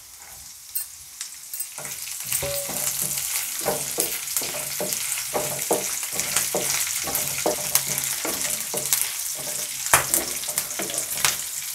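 Green chillies, chana dal and garlic cloves sizzling in hot oil in a nonstick frying pan, stirred with a wooden spatula that knocks and scrapes against the pan many times. The sizzle swells about two seconds in, as the chillies go into the oil.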